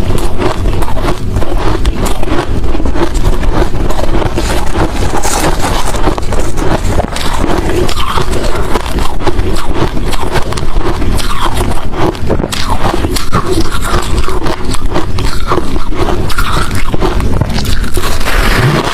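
Close-miked chewing of hard crushed and shaved ice: a dense, loud run of sharp crunches and crackles with hardly a pause.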